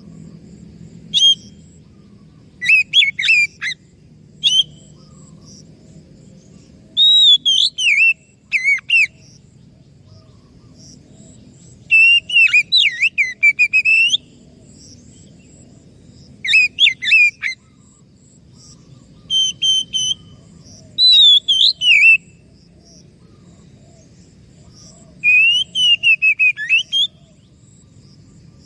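Oriental magpie-robin singing: phrases of varied, rapidly changing whistles with sharp high notes, delivered in short bursts with pauses of a second or more between them.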